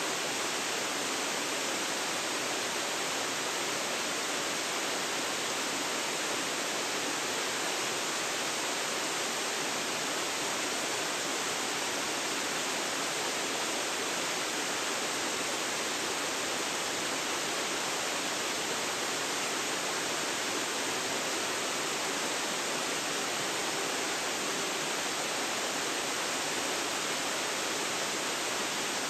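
Waterfall pouring steadily, an even, unbroken rush of falling water, recorded on a phone's built-in microphone.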